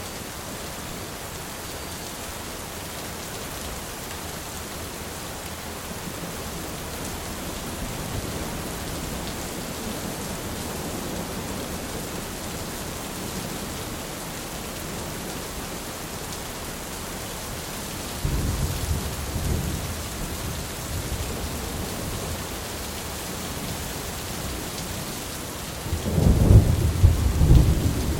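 Steady heavy rain hissing, with rolls of thunder: a low rumble about two-thirds of the way through and a louder, cracking roll of thunder near the end.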